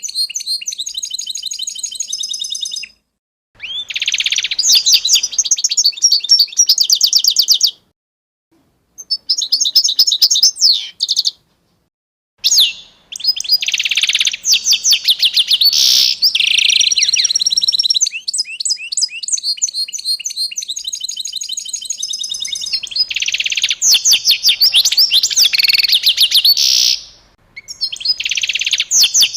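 Small songbirds chirping in fast, rapid runs of high notes. The song breaks off abruptly several times, leaving short silences between bursts.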